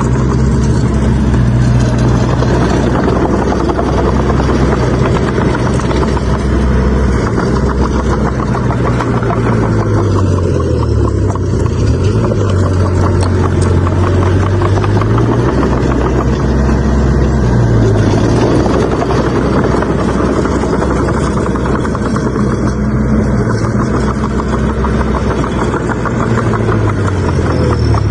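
Bulldozer's diesel engine running steadily, its note dipping in pitch and recovering several times, most clearly about ten to fifteen seconds in.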